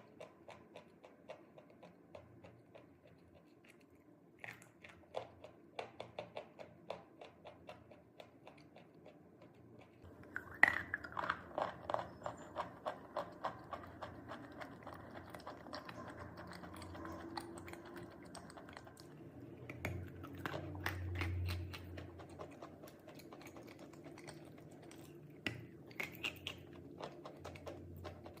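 A person biting and chewing hard chalk: a run of small crunching clicks, then a sharp bite about ten seconds in followed by quick, dense crunching as the chalk is chewed.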